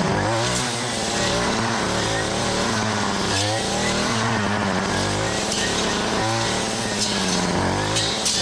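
Small gas engine revving up and easing off over and over, with brief drops in throttle about three and a half and six seconds in.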